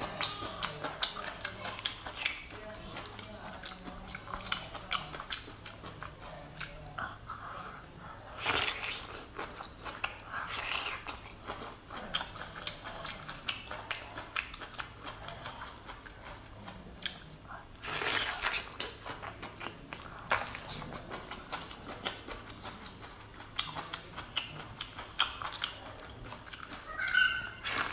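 Close-miked chewing and biting of thick, rubbery kelp: a continuous run of small wet crunches and clicks, with a few louder bites.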